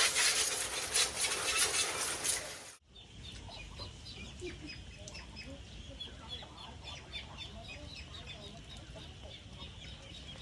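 A loud, even hiss like water spraying, which cuts off abruptly about three seconds in; after it, chickens clucking and chirping.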